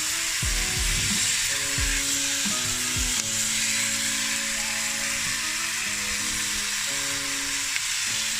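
Chicken and vegetables sizzling steadily as they stir-fry in a pan, with a few low knocks in the first three seconds, over background music.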